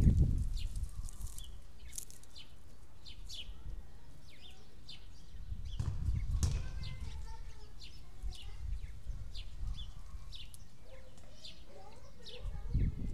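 Small birds chirping, short high calls repeated all through, over a low rumble that swells at the start, about six seconds in and near the end.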